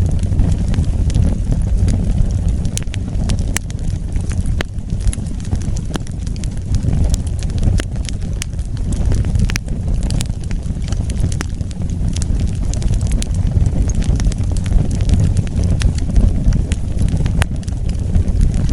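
Wood fire crackling, with many irregular sharp pops and snaps over a steady low rumble of the burning fire.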